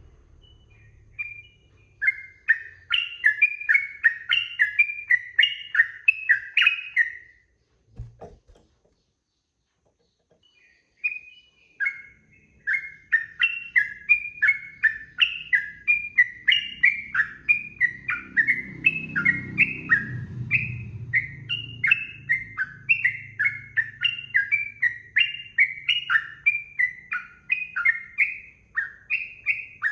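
Yellow-vented bulbul (trucukan) singing a long, fast run of bubbly chattering notes. The song breaks off after about seven seconds, with a brief low knock in the pause, and picks up again a few seconds later.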